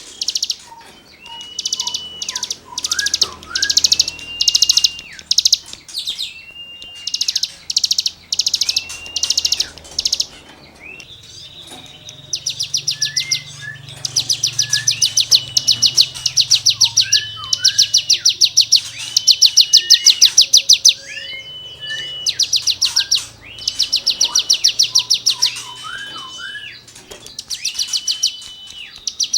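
Cigun songbird singing continuously. Runs of rapid, buzzy, rasping trills ('gesekan' material) alternate with short clear level whistles that drop in pitch at their ends. The song pauses briefly about a third of the way in, then resumes louder.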